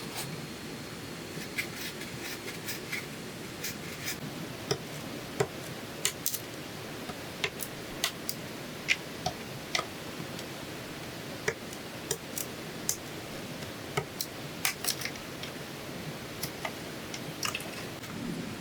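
Irregular sharp clicks and light taps of bamboo being worked by hand, over a steady soft hiss.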